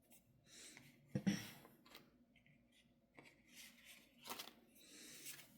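Reading cards being drawn and laid down by hand: faint rustles and light taps, with one louder tap about a second in.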